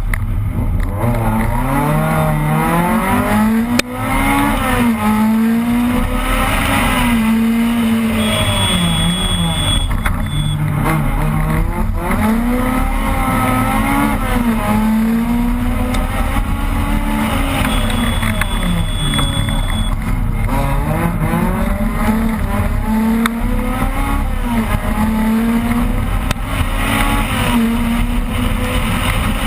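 Opel Kadett rally car's engine heard from inside the car, driven hard, its pitch climbing and falling again and again as it is revved through the gears, with a brief lift about four seconds in. A high steady tone sounds twice, each time for about two seconds.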